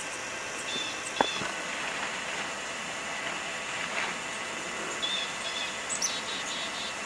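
Steady outdoor background hiss with a few short, high chirps, about a second in and again around five seconds, and one sharp click near the first chirps.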